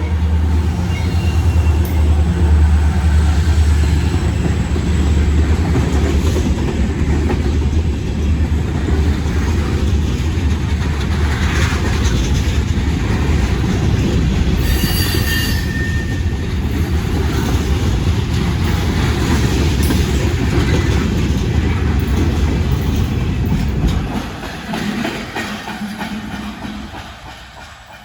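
A train passing close by: a heavy, steady rumble of locomotive and cars on the rails, with a brief high-pitched wheel squeal about halfway through. The rumble fades away near the end as the train moves off.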